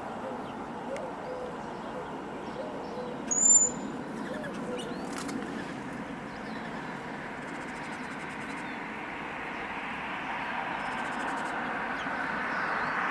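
Outdoor birds calling: a string of low cooing notes over the first few seconds and a single sharp, high chirp about three and a half seconds in. A steady traffic rush swells toward the end.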